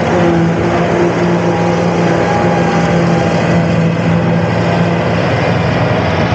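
Farm machinery engine running at a steady speed, an even drone with no change in pitch.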